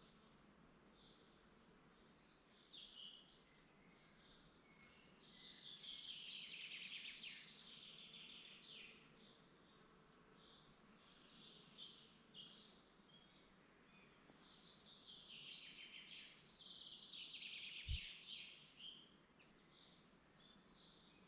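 Faint woodland birdsong from several birds, with scattered chirps and two longer, rapid trilling songs, one about a third of the way in and another toward the end. A brief low thump comes near the end.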